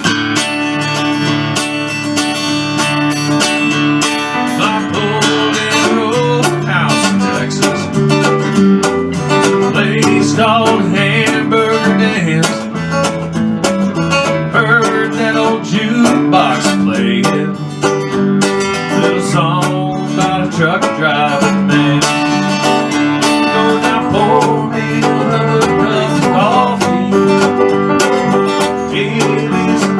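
Instrumental country music with plucked guitar, no singing.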